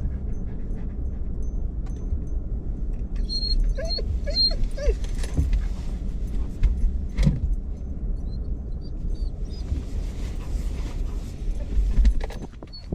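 A dog whines several times in short, pitch-bending whimpers over the steady low rumble of a pickup truck's cabin. It is excited at arriving at the store.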